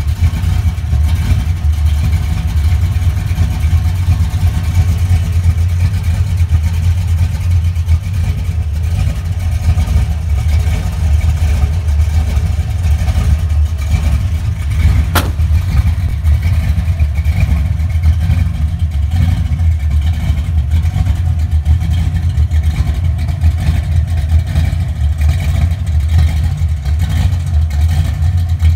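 1970 Ford Maverick engine idling with a steady, pulsing low rumble, and a single click about halfway through.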